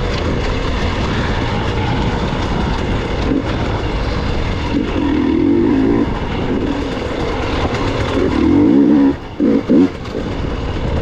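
Gas Gas EX 300 two-stroke dirt bike engine running under changing throttle on rough terrain, swelling in pitch and level in two stretches, with a couple of quick throttle chops near the end.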